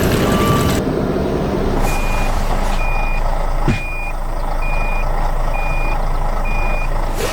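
Truck reversing alarm beeping six times, about once a second, over a low engine rumble, with a single knock partway through. A louder noisy sound cuts off about a second in, before the beeping starts.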